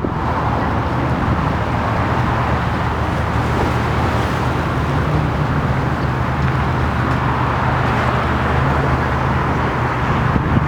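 Steady engine noise: a low, even hum under a constant roar.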